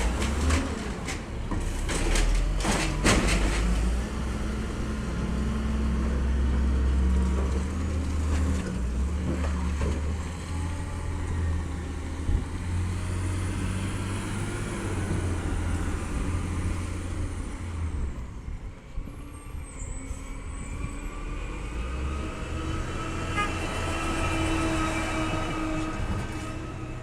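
Peterbilt 320 automated side-loader garbage truck at work: a few sharp knocks at the start, then its engine running with a heavy low drone and a faint high whine, and several tones rising slowly near the end.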